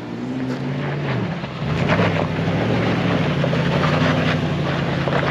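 Off-road truck engine working under throttle on a rocky climb. Its pitch dips about a second in, then rises and holds as it pulls, with scattered crunches from the tyres on rock.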